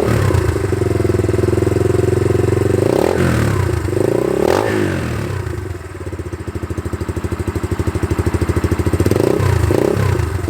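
SSR 150 pit bike's single-cylinder four-stroke engine idling, with the throttle blipped a few times so the revs rise and drop quickly. In between, the idle settles into slow, even firing pulses.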